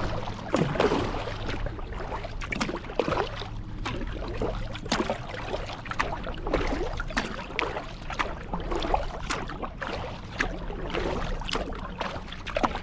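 Kayak paddle strokes on a lake: the blades dipping and pulling through the water, with splashing and dripping roughly once a second. A faint steady low hum runs underneath.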